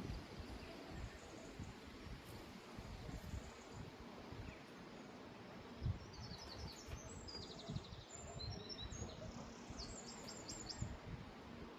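Wind rumbling and buffeting the microphone, with a couple of low thumps. In the second half a small bird chirps in quick runs of short high notes.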